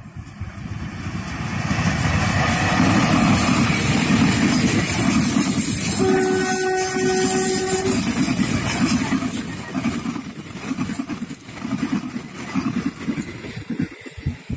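Diesel-hauled passenger train approaching and passing at speed, its noise building over the first couple of seconds. The locomotive's horn sounds once for about two seconds midway. The coaches then clatter past, their wheels knocking over the rail joints as the sound fades.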